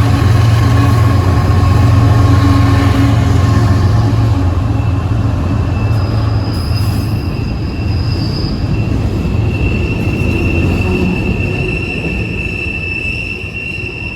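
A train rolling past close by. A heavy low rumble fills the first few seconds and then fades, and from about six seconds in its wheels squeal on the rails in steady high-pitched tones that grow stronger toward the end.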